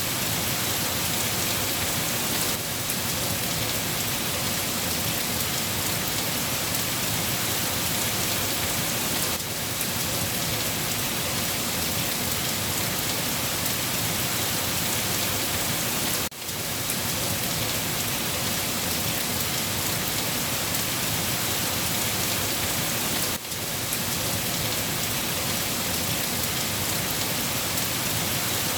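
Steady heavy rain, a dense even patter of drops falling on a surface. The sound dips for a moment twice, about two-thirds of the way through and again a few seconds later.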